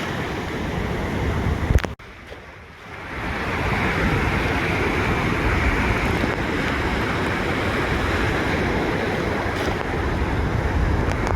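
Ocean waves washing on a beach, with wind buffeting the microphone. About two seconds in there is a click and the sound drops away suddenly, then the surf and wind build back up.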